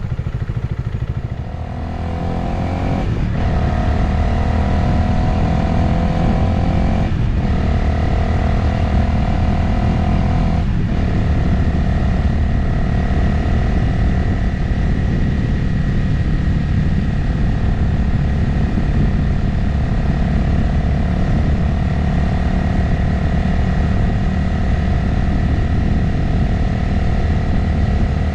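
Motorcycle engine pulling away and accelerating, its pitch rising between three brief breaks like upshifts in the first eleven seconds, then settling to a steady cruise with road noise.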